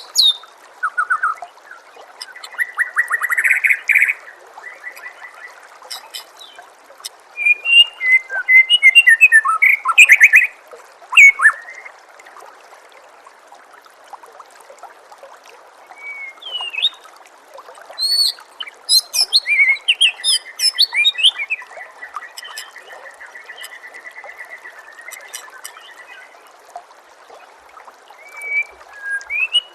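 White-rumped shama (murai batu) singing in separate bursts of varied whistles, chirps and quick rattles, with a long even trill in the second half, over a steady background of trickling water.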